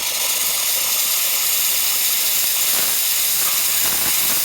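Expobar espresso machine's steam wand opened, starting abruptly and then hissing loudly and steadily with the boiler at about 1.2 bar, which is a good level for strong steam.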